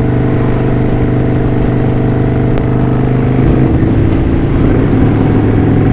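Kawasaki Vulcan VN900 V-twin engine running steadily under way, over wind and road noise on a helmet microphone; its engine note shifts a little past halfway through.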